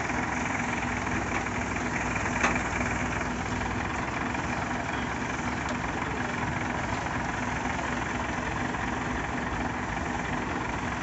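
Heavy vehicle engine idling steadily, with a steady low hum; a single sharp click about two and a half seconds in.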